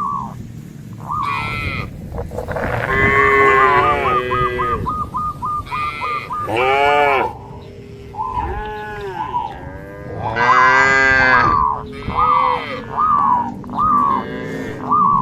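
A herd of cattle mooing, several animals calling over one another. Long calls of different pitches are loudest about three, seven and eleven seconds in, with shorter, higher calls repeating between them.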